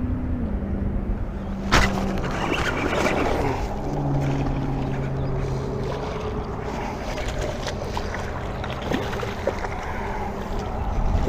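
Boat motor humming, its pitch stepping down and up several times as the speed changes. Wind buffets the microphone, and there is a single sharp knock about two seconds in.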